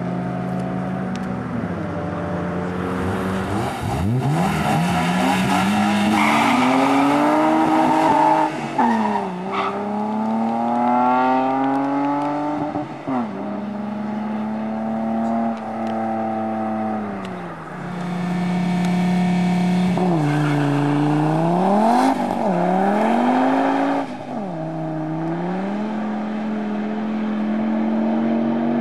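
Car engine revving hard under acceleration, its pitch climbing, dropping sharply at each gear change and climbing again, several times over.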